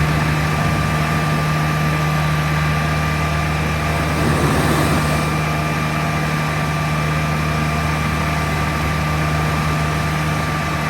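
A 2010 Peterbilt PB340 vacuum truck running steadily, with an even low drone and a constant higher whine over it.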